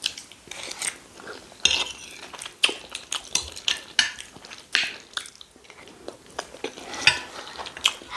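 Spoons and cutlery clinking and scraping against plates while eating rice and stew, with irregular sharp clicks and some chewing.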